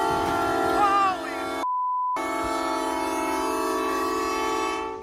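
Train horn blowing one long chord. About two seconds in it is cut for half a second by a single pure censor bleep, and a person's voice cries out over the horn about a second in.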